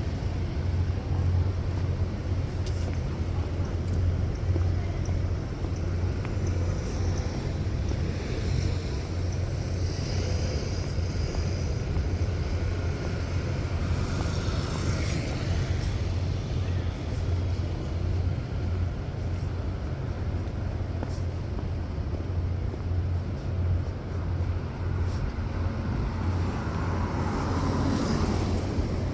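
City street traffic: a steady low rumble of cars, with a vehicle passing now and then.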